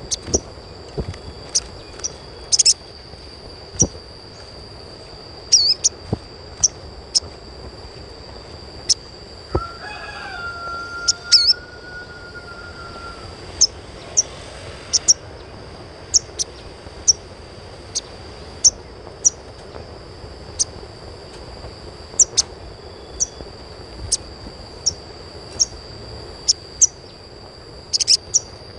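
Sogon (little spiderhunter) calling in short, sharp chirps about once a second, over a steady high-pitched whine. A rooster crows once in the background about ten seconds in.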